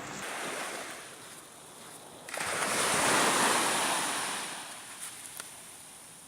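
Waves breaking on a beach, a rushing wash of surf; a bigger wave surges in suddenly about two seconds in and fades away slowly.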